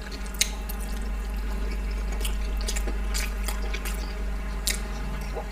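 A few soft clicks of a spoon against a plate and wet mouth sounds as moi moi, a soft steamed bean pudding, is scooped and eaten, over a steady low hum.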